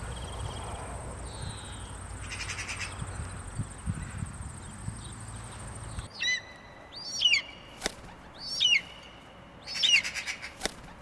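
A steady high-pitched buzz over a low rumble, which cuts off abruptly about halfway through. A bird then calls four times with sharp, curving high chirps, with a couple of clicks between them.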